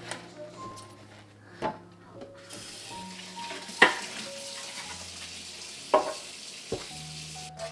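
Fridge shelves and containers being washed: a faint hiss like running water, with four sharp knocks of items set down or bumped, over soft background music with held notes.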